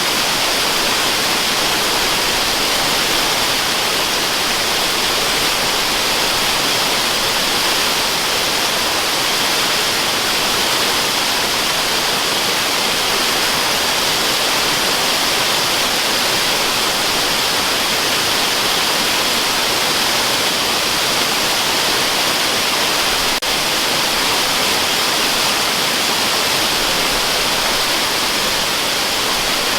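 Waterfall rushing steadily, an unbroken even hiss weighted toward the high end.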